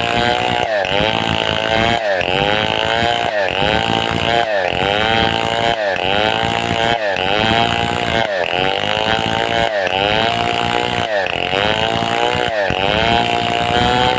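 Large two-stroke chainsaw of the Stihl 070 / New West 707 type running under load as it rips through a log. The engine pitch dips and recovers over and over, about every three-quarters of a second, as the bar bites into the wood.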